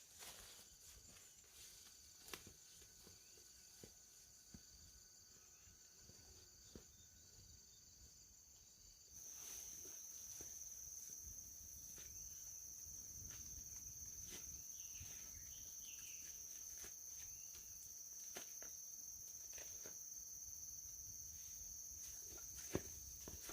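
Insects, crickets or cicadas, droning in one steady high-pitched tone that grows louder about nine seconds in, with scattered faint clicks.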